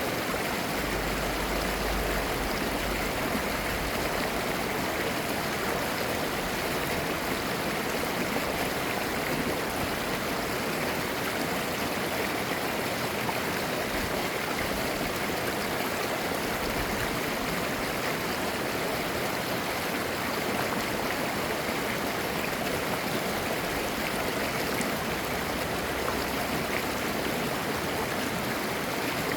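Mountain stream flowing over rocks: a steady, even rush of water with a gurgling quality.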